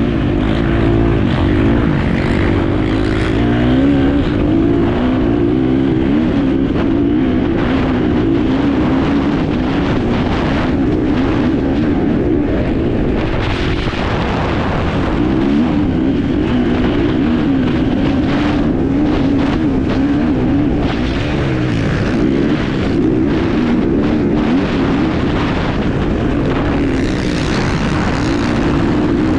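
Enduro motorcycle engine heard on board under race riding, its pitch rising and falling as the throttle opens and closes, with frequent short knocks over it.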